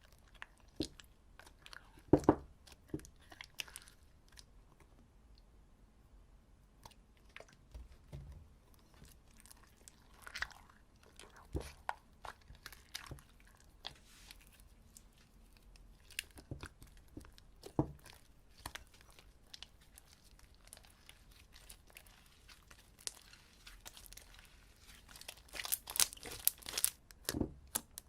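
Slime being mixed and worked: scattered small sticky clicks and crackles, coming thicker near the end.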